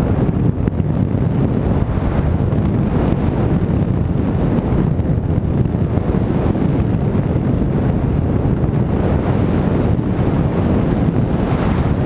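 Wind buffeting the microphone: a steady, loud, low rushing with no engine or motor tone.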